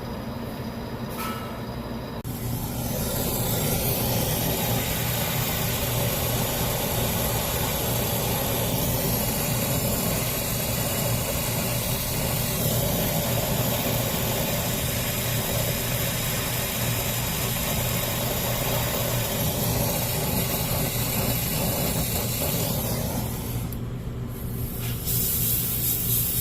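Reach-in cooler's refrigeration unit running: a steady hum, with a steady hiss that comes in about two seconds in and drops away near the end.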